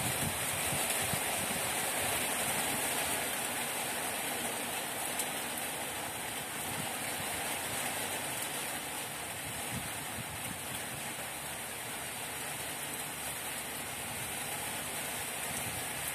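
Steady rain falling on a steel rebar mesh laid for a concrete slab.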